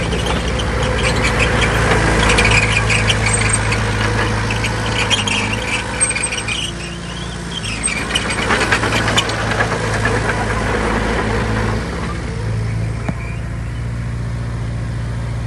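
Diesel engine of heavy earthmoving machinery running steadily, with a stretch of clattering and crunching over roughly the first half.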